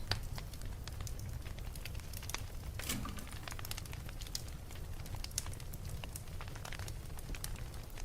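Wood fire burning in a fireplace: a steady low rumble of the flames with irregular sharp crackles and pops, a brief cluster of crackling about three seconds in.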